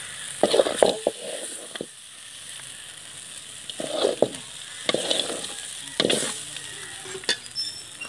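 Oil sizzling steadily in a frying pan of quail, with a few bursts of scraping and clinking as a steel perforated ladle lifts the pieces out onto a steel plate.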